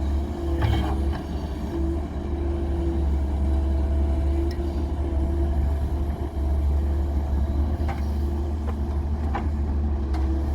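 Heavy diesel machinery engine running steadily, with a few short metallic knocks now and then.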